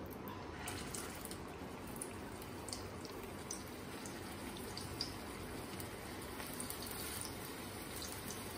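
Vegetable cheese cutlets shallow-frying in a little oil in a nonstick pan: a faint, steady sizzle with scattered small pops and crackles.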